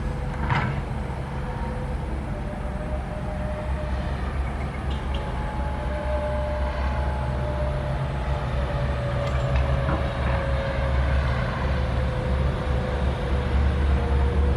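SANY SY135F excavator's diesel engine running under load, a steady low drone, with a faint hydraulic whine that drifts slowly in pitch. There is a short clank about half a second in.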